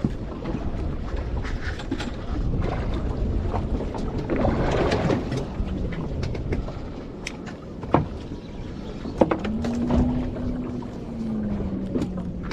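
A boat engine runs under a steady rumble of wind and water, with a few sharp knocks. Near the end the engine pitch rises and then falls.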